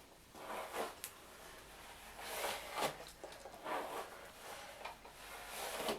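A hairbrush being drawn back through hair: several soft, scratchy brushing strokes, irregularly spaced.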